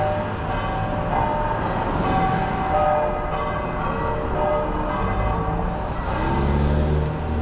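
Bell-like chiming: a series of held notes changing pitch about once a second, over the steady low rumble of a car in motion.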